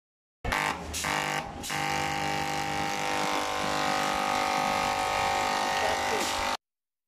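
Pegasus industrial overlock sewing machine running steadily at speed, a mechanical hum with a high hiss, starting abruptly and cutting off suddenly near the end.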